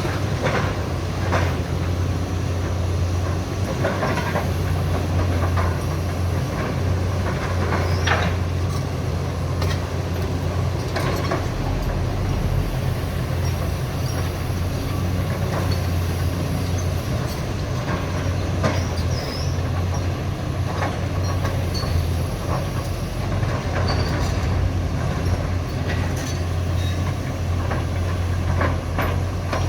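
Heavy diesel hydraulic excavator running steadily while demolishing a building, with repeated crunches, knocks and scraping of breaking debris and a few short metallic squeals.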